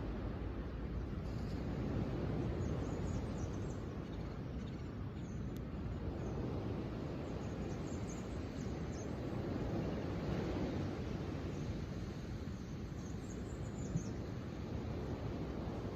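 Steady low outdoor rushing noise with small birds chirping faintly a few times, high-pitched and brief.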